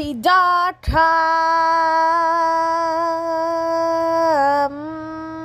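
Sung logo jingle in a woman's or girl's voice: a few quick syllables, then one long held note that dips a little in pitch near the end and holds on.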